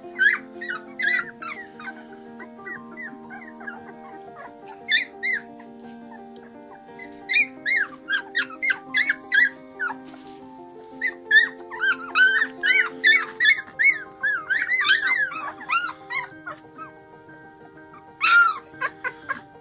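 Dog making short, high-pitched squeaky whines and yips in bursts, each squeak a quick rise and fall in pitch, over background music.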